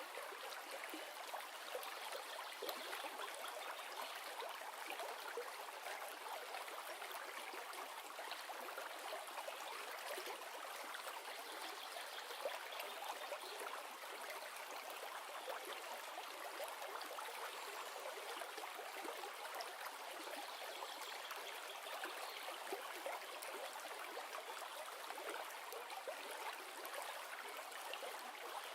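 River flowing over rocks: a steady rushing and babbling of water.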